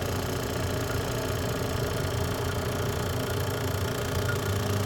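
HVAC vacuum pump running steadily with an even hum, pulling a system down into deep vacuum at a few hundred microns during evacuation.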